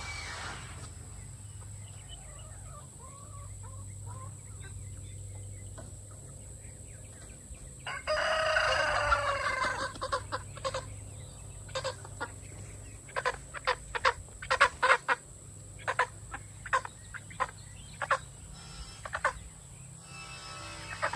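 Chickens: a rooster crows once, a loud call of about two seconds starting about eight seconds in, followed by a run of short, sharp clucks.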